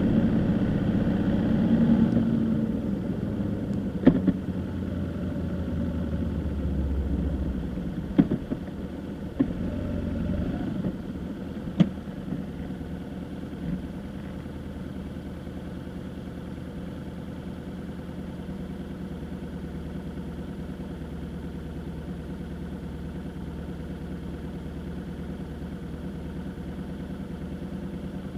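A vehicle engine running at idle, with a handful of sharp clicks in the first half; after about twelve seconds it settles into a quieter, steady drone.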